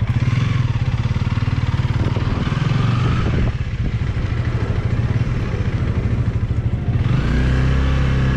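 Honda Rebel 300's single-cylinder engine running under way with a pulsing exhaust note. It dips briefly about three and a half seconds in, as at a gear change, and picks up again near the end.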